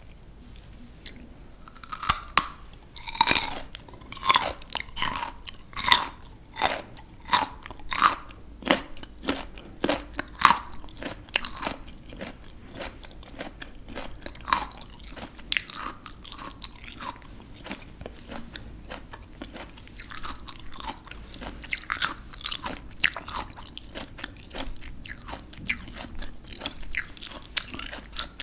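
A person biting and chewing crisp raw vegetables close to the microphone. Loud, sharp crunches come in quick succession for about ten seconds, then give way to softer, steady chewing.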